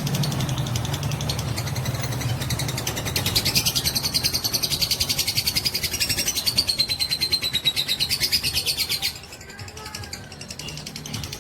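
Lovebird's long 'ngekek' song: a rapid, high-pitched chattering trill of pulses in very quick succession. It grows loudest for several seconds and then cuts off abruptly about nine seconds in.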